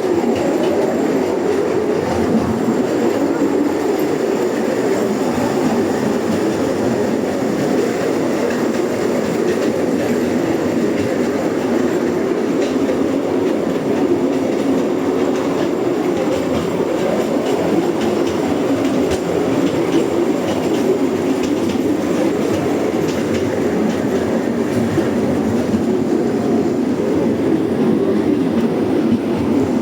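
Steady, unbroken rumble of a vehicle in motion.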